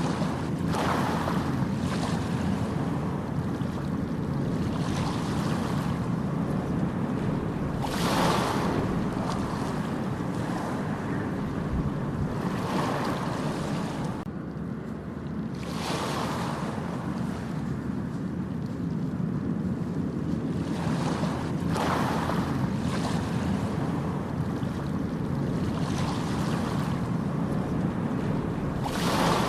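Ocean waves breaking on a beach, each wave swelling into a hissing wash every five to seven seconds over a steady low rumble of surf, with wind buffeting the microphone.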